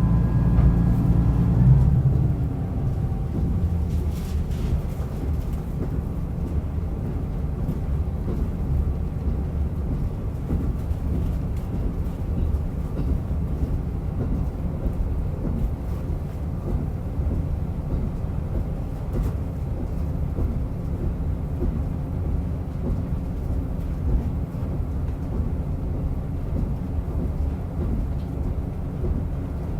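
Diesel railcar running on the line, heard from on board. The louder engine note with its higher tones drops away about two seconds in. After that there is a steady low rumble of the car and its wheels on the rails.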